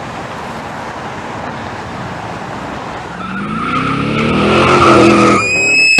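Car sound effect: a rushing noise of tyres on the road, then from about halfway an engine revving higher and higher under a steady tyre squeal, which sharpens into a higher screech in the last half-second, getting louder throughout.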